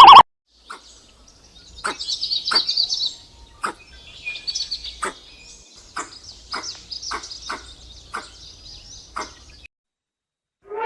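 Bird chirping and trilling in high, rapid runs, with about ten sharp clicks scattered among them; the loudest trill comes about two seconds in. The tail of a very loud steady tone cuts off just at the start.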